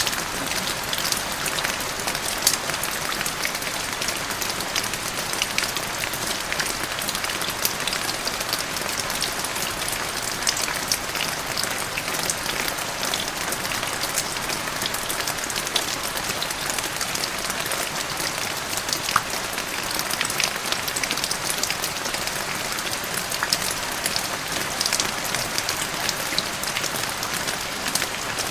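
Steady rain falling, with many separate drops striking the ground as a dense scatter of small clicks over a constant hiss.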